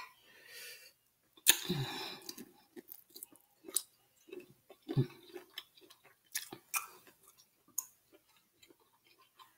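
A person chewing a peeled tiger shrimp dipped in seafood sauce, close to the microphone: wet mouth noises and small clicks, with a louder mouth sound about one and a half seconds in.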